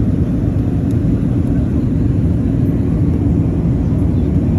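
Steady low rumble of engine and airflow noise inside the cabin of an Airbus A380 airliner.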